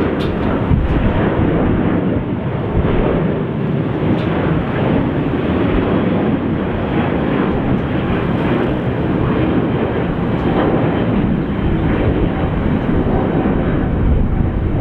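Jet airliner engine noise: a steady, loud rush with no rise or fall in pitch.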